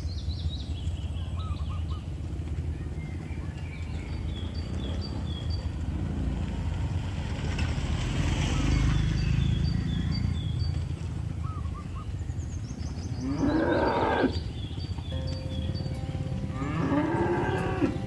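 Cattle mooing, two long low calls, the second near the end, over a steady low rumble. Faint high chirping repeats in the background.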